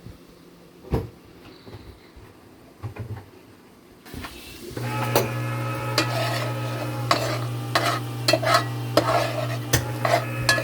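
A few scattered knocks, then about four seconds in onions start sizzling in a pot and a spoon scrapes and clatters against it as they are stirred to brown, over a steady low hum.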